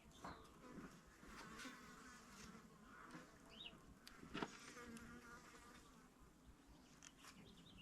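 Faint buzzing of a flying insect passing near the microphone, coming and going twice, with a few light clicks over low room tone.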